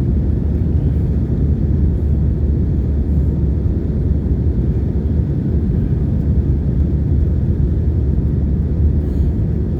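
Steady cabin rumble of an Airbus A320 with CFM56-5B engines, heard from a window seat: an even, loud low drone with no distinct events.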